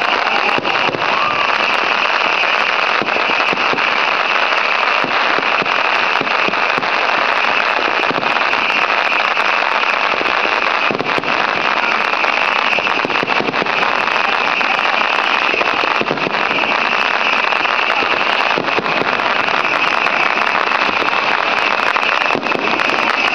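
Fireworks crackling in a dense, unbroken barrage, with many small pops running together at a steady loudness.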